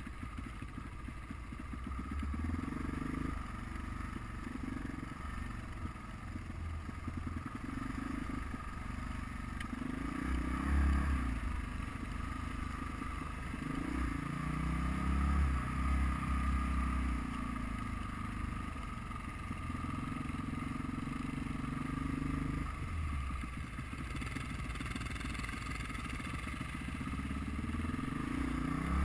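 Off-road motorcycle engine heard from the bike itself, its revs climbing and dropping over and over as it accelerates and eases off along a rough dirt trail.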